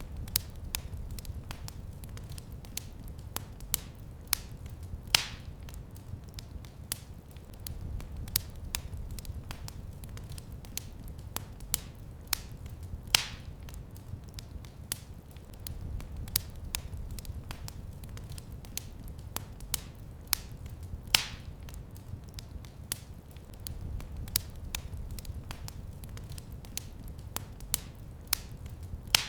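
Wood fire in a fireplace crackling, with a constant scatter of small snaps over a low rumble, and three louder pops about eight seconds apart.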